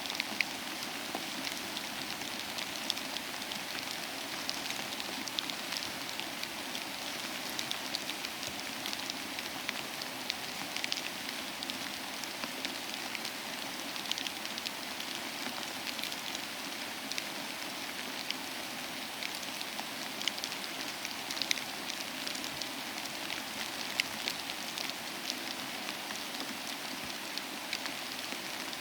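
Steady rain falling on a surface, a constant patter with many individual drops ticking sharply through it.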